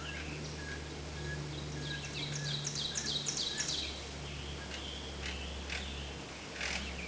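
A bird singing a quick run of about six repeated, arched high notes, over a steady low hum.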